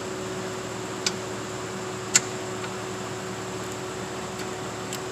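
Two sharp metal clicks about a second apart, the second louder, with a couple of fainter ticks near the end, as a brake caliper is handled and fitted back over the pads, over a steady background hum.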